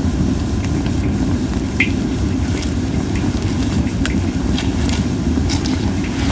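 Japanese white pine logs burning in a campfire, crackling with scattered sharp pops and little hissing, one brighter pop a couple of seconds in, over a steady low rumble.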